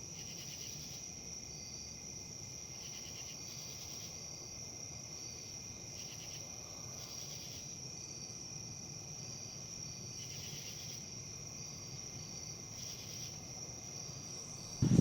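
A steady high-pitched chorus of crickets, with short repeated chirps over it and a faint low rustle beneath. Just before the end, a sudden loud rush of low noise cuts in.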